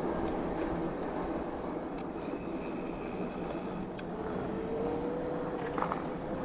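Bicycle being ridden along a forest trail: a steady rolling rush of tyres and wind, with a few light clicks and rattles from the bike. A faint steady whine comes in about four seconds in and rises slightly in pitch.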